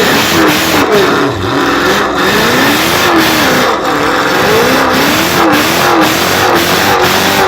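Muscle car engine revved up and down over and over, about once a second, during a tyre-smoking burnout, over a steady hiss.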